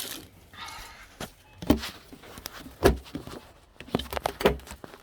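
A few scattered dull knocks and thumps, the loudest about three seconds in, over a quiet background.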